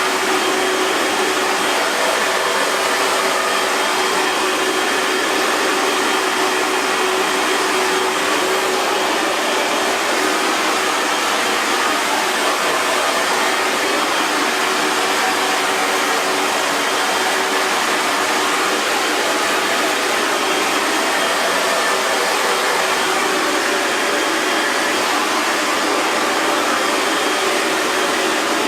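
Hair dryer running steadily: an even airflow hiss with a faint motor hum, unchanging throughout.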